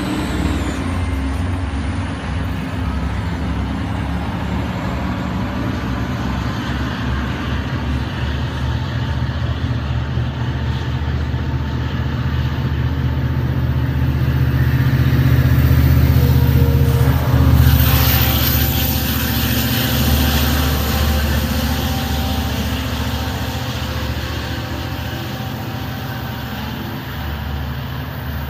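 Long Island Rail Road diesel train pulling out and passing beneath, a steady low engine drone with the rumble of the coaches. It swells to its loudest about two-thirds through, where there is a brief hiss, then fades as the train moves off.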